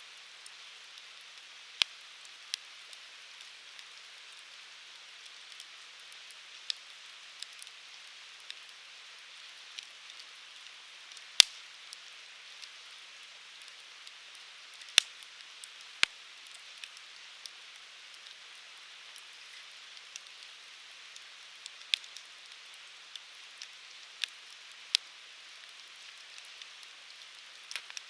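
Wood fire burning: a steady soft hiss with irregular sharp crackles and pops from the firewood, the loudest pops about 11 and 15 seconds in.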